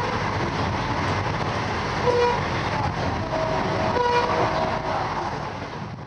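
Laos–China Railway train running, a steady rush of wheel and rail noise heard from inside the carriage, with the train horn giving short toots about two seconds in and again about four seconds in. The sound fades away near the end.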